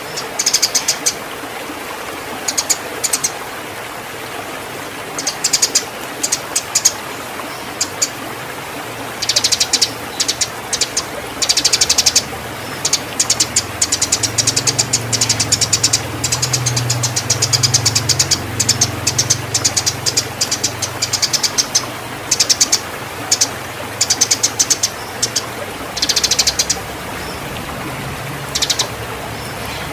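Eurasian tree sparrows chattering in rapid, irregular bursts of sharp chirps: the agitated calls of sparrows fighting in breeding condition. A steady hiss lies underneath.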